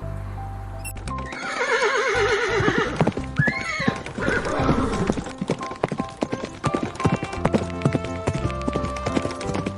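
A horse whinnying with a quavering, falling call, then a run of quick hoof clops, over steady background music.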